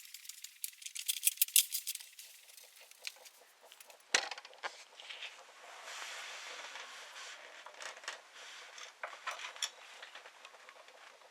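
Irregular small clicks and knocks, with one louder sharp knock about four seconds in and a soft hiss through the middle.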